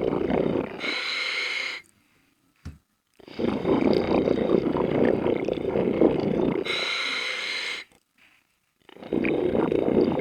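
A scuba diver breathing through a regulator underwater: a long rumble of exhaled bubbles, then about a second of higher hiss, then a short pause. The cycle repeats about every five and a half seconds.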